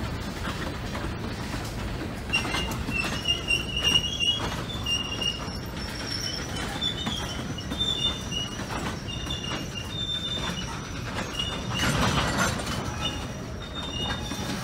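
Railroad tank cars rolling slowly past with a steady rumble of wheels on rail. From about two seconds in comes an on-and-off high wheel squeal, and the rumble swells louder briefly around twelve seconds in.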